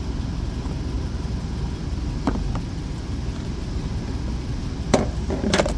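Jeep Wrangler engine idling steadily, with a few light clicks as the plastic fuse box cover is handled, about two seconds in and again near the end.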